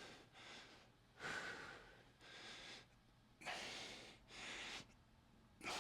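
A man's breathing, faint and deliberate: about five slow breaths in and out, paced to a slow hip-mobility exercise.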